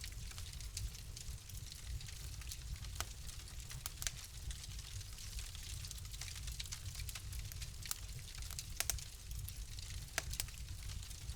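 Wood fire crackling in a fireplace: frequent sharp pops and snaps over a steady low rumble of the flames, with a couple of louder pops in the second half.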